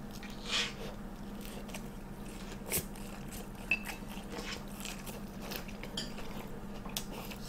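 Faint close-up chewing of a fried Korean hot dog, with a few soft crunches and small mouth clicks spread through it.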